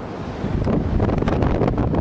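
Storm-force wind gusting hard against the microphone, a dense rushing and buffeting that eases for a moment and then surges again about half a second in.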